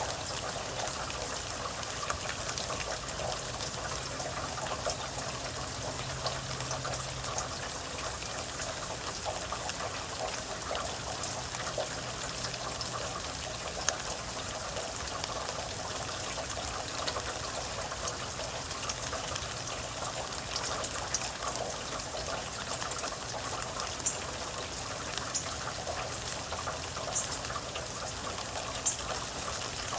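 Steady rain falling, with many scattered close drips and drop impacts.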